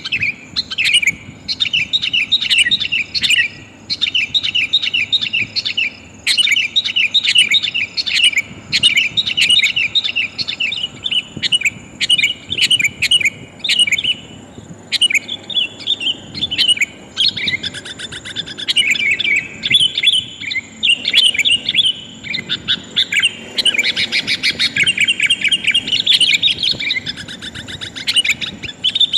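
Sooty-headed bulbuls (kutilang) calling in quick, repeated chattering phrases of short high notes, with denser, more continuous chatter in the second half. This is a bird-lure call, a female's call to attract males.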